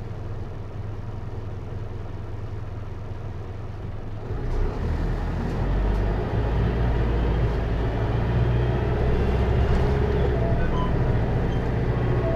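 Hino Liesse microbus's J05C four-cylinder diesel engine idling, heard inside the cabin; about four seconds in it revs up and grows markedly louder as the bus accelerates, and it keeps pulling with a heavy low rumble.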